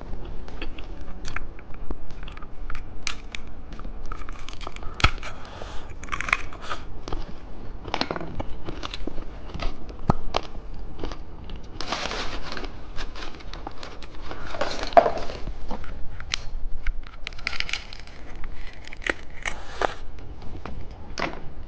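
Plastic candy packaging being handled and unwrapped: crinkling and tearing of wrapper film with many small sharp clicks, and longer bouts of crinkling about halfway through and near the end.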